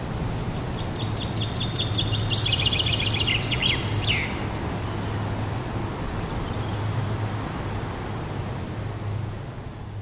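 A songbird sings one phrase about a second in: a fast run of rapid repeated notes that ends in a quick downward flourish. Under it runs a steady low outdoor rumble.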